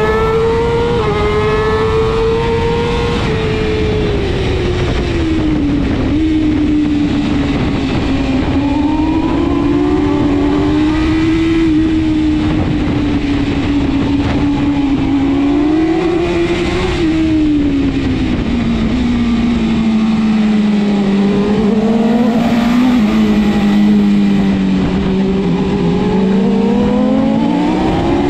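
BMW S1000RR superbike's inline-four engine running hard at race pace. Its pitch slowly falls and wavers through the middle, sinks lowest in the last third, then climbs steeply near the end as it revs up again.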